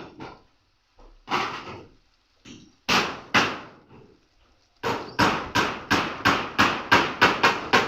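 Hammer blows. First a few spaced strikes, then from about five seconds in a quick, even run of about four blows a second.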